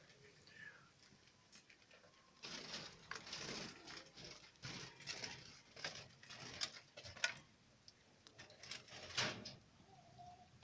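Faint rustling and scraping in irregular bursts, with a few sharp clicks.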